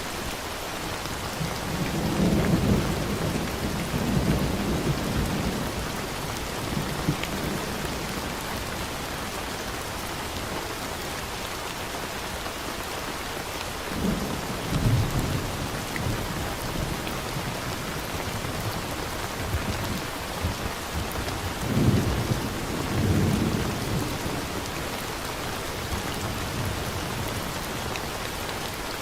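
Steady rain falling, with three low rolls of thunder: a long one about two seconds in, another around fourteen seconds, and a third around twenty-two seconds.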